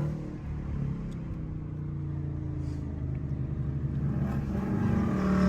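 Car engine running with a low drone that climbs slowly in pitch, like a car accelerating under light throttle, growing louder near the end.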